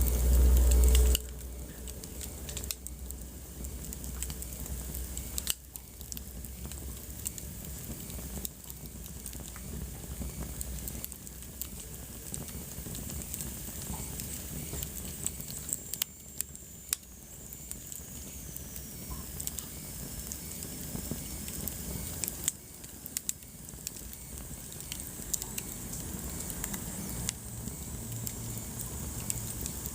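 Wood fire in a fireplace crackling, with irregular sharp pops over a soft steady hiss. A brief low rumble sounds in the first second, and a faint high whistle falls in pitch about halfway through.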